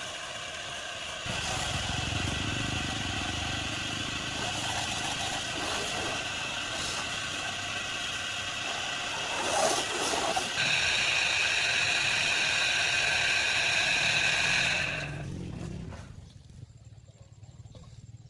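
A motor running steadily with a high whine, stepping up about a second in and again about ten seconds in, then winding down and stopping near the end.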